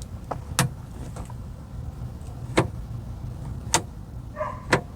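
Sharp separate clicks, four loud ones about a second apart, from the car door's latch cable parts and their plastic adjuster being handled and worked. A low steady hum runs underneath.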